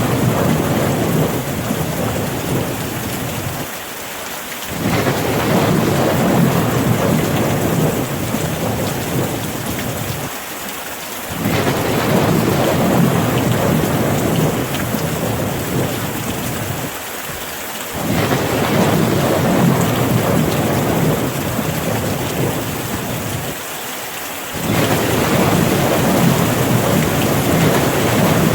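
Steady rain with low rolling thunder rumbles. The rumble comes back abruptly about every six to seven seconds, holds and fades, then drops away briefly before the next one.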